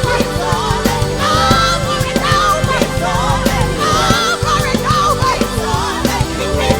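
Worship band music with a steady beat, held bass and keyboard notes, and a wavering lead melody line.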